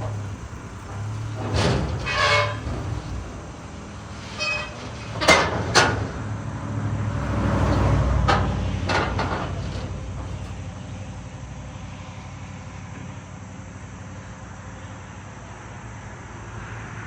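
Truck engine running steadily, with several sharp metallic knocks and clanks in the first ten seconds and a brief rise in engine noise about eight seconds in.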